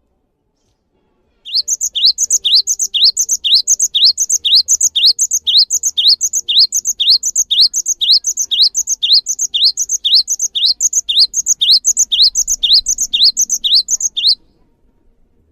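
A songbird repeating one short rising chirp steadily, about two or three notes a second. The song starts about a second and a half in and cuts off abruptly near the end.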